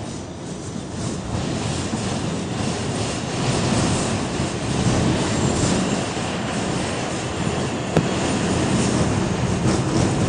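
New York City Subway R46 car running on the rails, a steady rumble and rattle of wheels that grows louder over the first few seconds, with a sharp click about eight seconds in and a faint high wheel squeal partway through.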